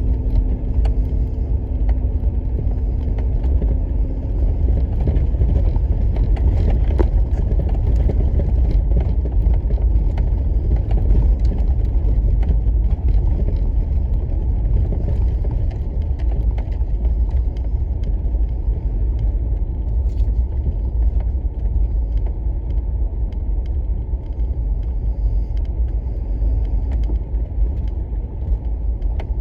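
Steady low rumble of a car in motion, road and engine noise heard from inside the cabin, with a faint steady hum over it for the first few seconds.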